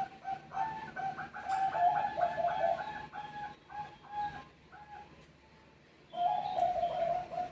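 Zebra doves (Bangkok perkutut) cooing, several birds answering one another in fast runs of short staccato coos that overlap most thickly in the middle. After a pause of about a second, a new run of coos starts near the end.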